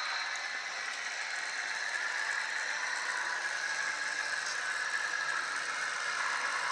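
HO-scale Budd RDC model railcar running, its small onboard speaker playing the Galloping Goose sound decoder's engine sound: a steady, rattly running noise, sometimes likened to a bad muffler or exhaust.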